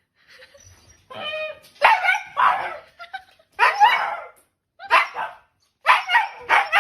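A dog barking in a run of about six loud barks, beginning with a higher, drawn-out call.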